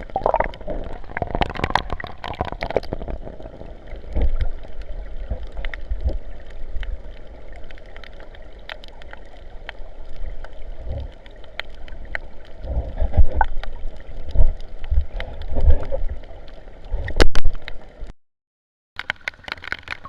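Sea water splashing and sloshing close to the microphone, with low rumbling buffeting and irregular thumps. The sound drops out briefly near the end, then the splashing comes back.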